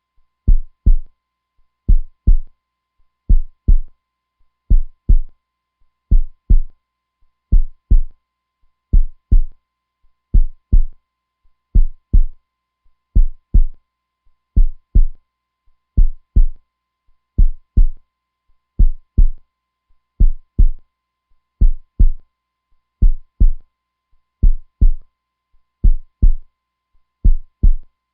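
Heartbeat, a slow steady lub-dub: pairs of deep low thumps repeating about every second and a half, with silence between them.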